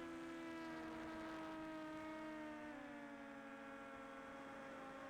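DJI Air 2S quadcopter's propellers humming, a faint steady hum of several tones that dips and settles lower in pitch a little under three seconds in.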